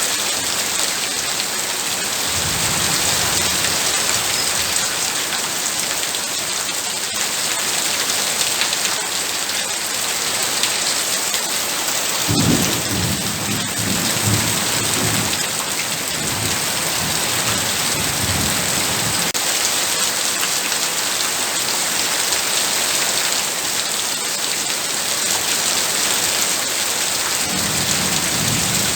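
Heavy rain pouring steadily, with low rolling thunder: a faint rumble a few seconds in, a long stronger rumble about halfway through, and another starting near the end.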